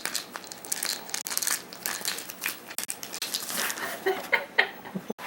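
Plastic pill bottle being worked over by an African grey parrot's beak: a rapid, irregular run of clicks, clatters and crackles, with a few short squeaky sounds about four seconds in.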